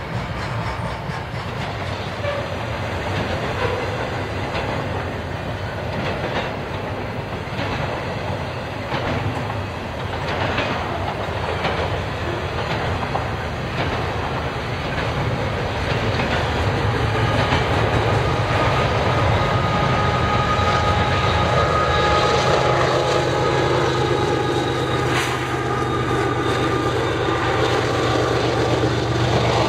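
Double-stack intermodal container cars rolling past with steady wheel-on-rail rumble and clatter. In the second half a Union Pacific diesel locomotive's engine hum comes in and grows louder as the locomotive draws level.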